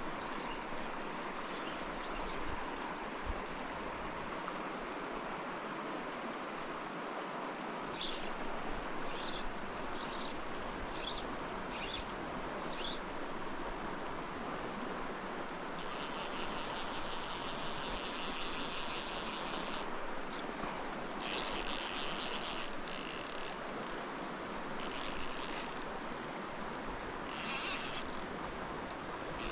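Fly reel's click-and-pawl ratcheting in several short spurts and a few longer runs, over the steady rush of the stream.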